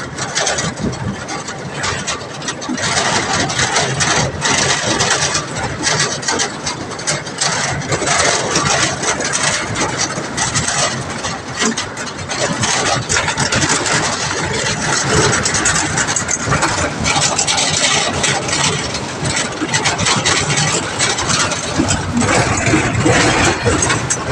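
A motor vehicle's engine running while travelling, under a steady rough noise.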